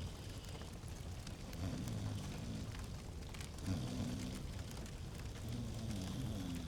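Log fire crackling in a fireplace: scattered small pops and snaps over a low rumble. A low sound swells about every two seconds.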